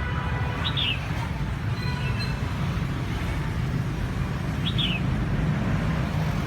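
Two short, high, falling bird chirps about four seconds apart, over a steady low rumble.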